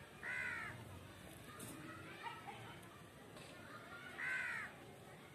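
Pet parrot giving two harsh squawks, each about half a second long, one near the start and one about four seconds in, with fainter chirps between.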